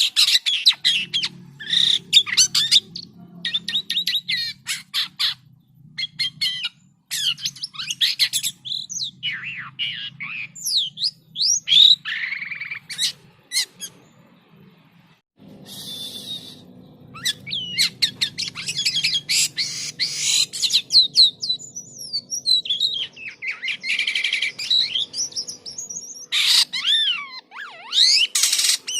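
Jalak kapas starling singing in full voice: a rapid, varied stream of harsh chatter, clicking runs and whistled rising and falling notes, breaking off briefly about halfway through before resuming.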